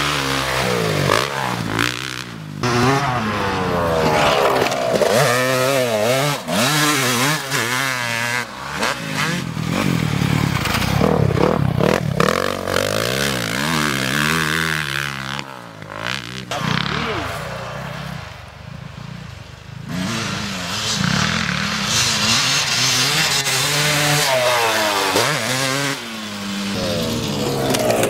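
Motocross bike engines revving hard, their pitch climbing and dropping again and again as the riders open the throttle and shift gears. The sound falls away for a few seconds about two-thirds of the way through, then comes back.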